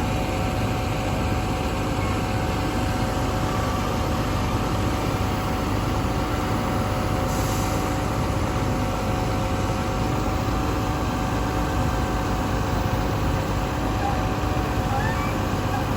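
A large vehicle engine idling steadily, an even running noise with a few constant tones over it.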